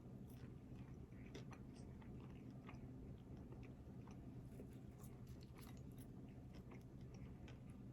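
Faint chewing and biting of fast food, with scattered short crisp clicks close to the mouth, thickest about two thirds of the way in, over a steady low hum.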